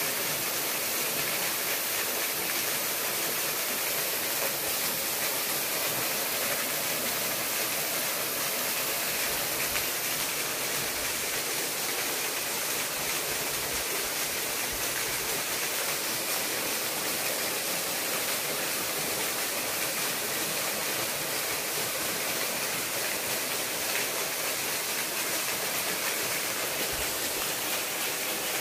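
Steady rush of a small waterfall, water pouring and splashing without a break.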